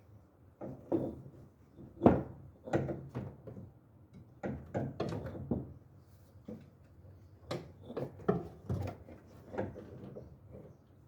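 A series of irregular knocks and thuds, a dozen or more short impacts, with the loudest about two seconds in.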